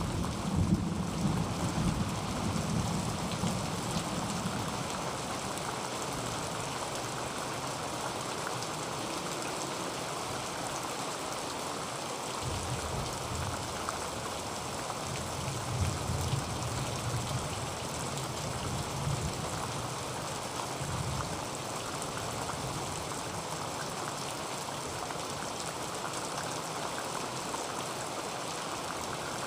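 Heavy rain pattering steadily on a tin roof, with low rumbles of distant thunder dying away in the first few seconds and rolling again through the middle.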